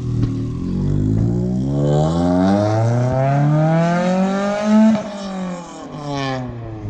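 Straight-piped Honda Civic engine accelerating: its loud note climbs steadily for about five seconds, then drops sharply and carries on at a lower pitch.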